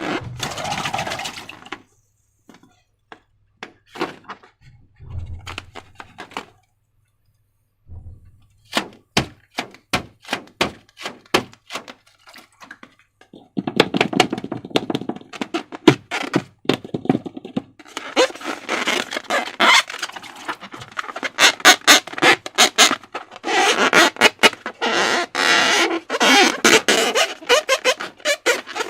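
Hands working sticky slime, making clicking and squelching sounds. These come as scattered clicks at first, then turn into dense wet crackling from about the middle on.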